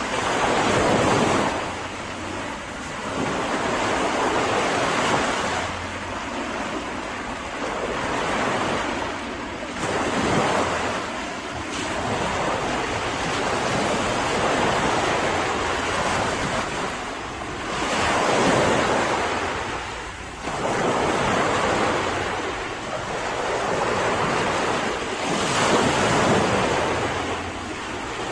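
Mediterranean sea waves washing onto a beach, each surge swelling and falling away every three to four seconds.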